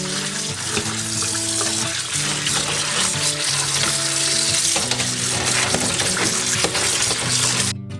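Tap water running into a sink as salted chicken feet are rinsed, stopping abruptly just before the end, over background music.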